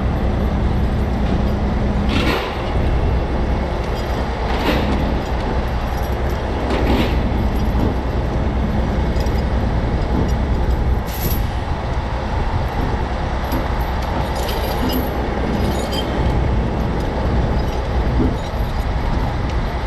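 Heavy diesel engine of a recovery truck running steadily under load during a hard pull on the wreck. A few sharp clanks or knocks from the rigging break through it in the first half.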